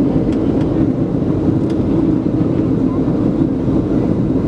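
Steady cabin noise aboard a Boeing 737-700 airliner: the constant drone of its two CFM56-7B engines and the airflow, with a few faint clicks.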